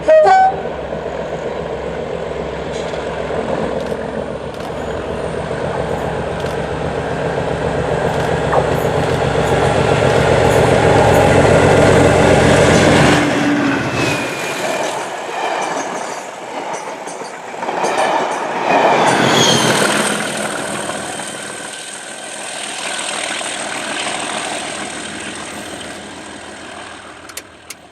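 Class 37 diesel locomotive with its English Electric V12 engine hauling a test train past. The engine's heavy rumble grows louder for about the first half and then drops away suddenly. The train's wheels follow, rumbling with a few short squeals, and the sound fades towards the end.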